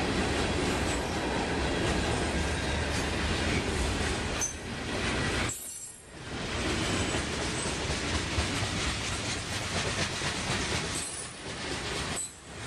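Freight cars of a passing manifest train: a steady rumble of steel wheels rolling over the rails, with a few short high-pitched wheel squeals. The noise dips briefly twice, about halfway through and near the end.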